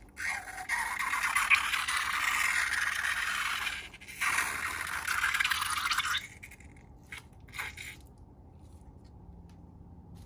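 Scraping noise in two long stretches with a short break between them, followed by a few light clicks, then it stops.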